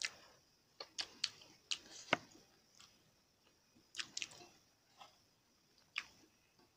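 Close mouth sounds of people chewing steamed chicken momos (dumplings): wet chewing with a string of irregular sharp clicks and smacks, about one or two a second.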